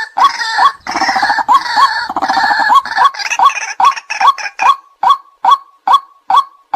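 White-breasted waterhen calling. The first few seconds are a dense, overlapping run of calls, then it settles into a steady series of short notes at about three a second.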